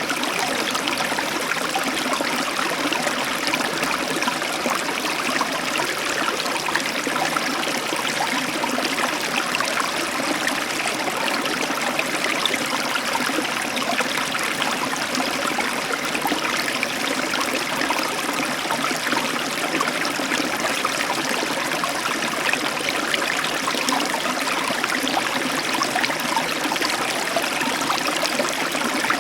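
Heavy tropical downpour falling steadily, an even rushing hiss of rain with no thunder.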